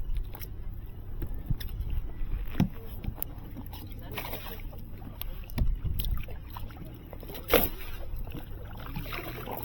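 Scattered knocks and handling noises aboard a small fishing boat over a low steady background, with the strongest knocks about two and a half, five and a half and seven and a half seconds in.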